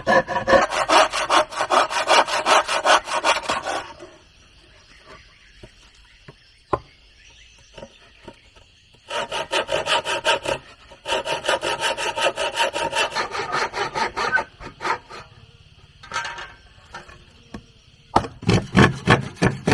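Hand saw cutting through wood in quick, rhythmic back-and-forth strokes, in three bouts with pauses between them.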